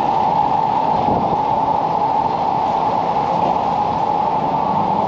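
Steady, even noise of a town street, with no distinct events standing out.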